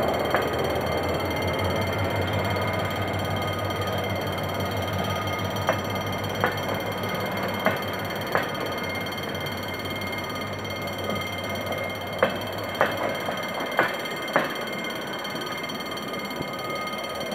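Passenger coaches rolling slowly past, their wheels clicking over rail joints in pairs, click-clack, a pair every second or so, over a steady rumble. A low drone from the train's GM GT-22 CW-2 diesel locomotive fades away about two-thirds of the way in.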